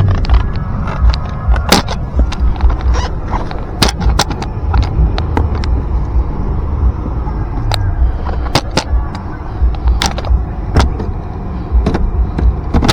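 Car engine being revved hard by pumping the accelerator pedal, the revs rising and falling back, with many sharp clicks scattered throughout.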